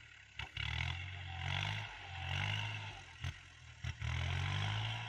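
Kubota L3218 tractor's diesel engine working hard under load as it drives a 183 cm rotary tiller in second gear, PTO at 540. The engine note sags and climbs back up in pitch several times as the tiller bites into the soil, with a few short knocks.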